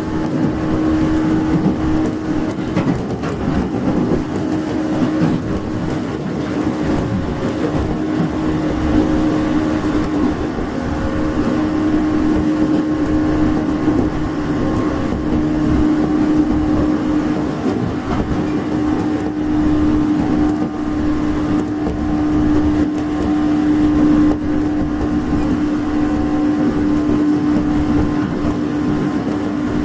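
Interior running sound of a 415 series 1500-subseries electric train: a steady rumble of wheels and bogies, with a steady hum held at one pitch throughout.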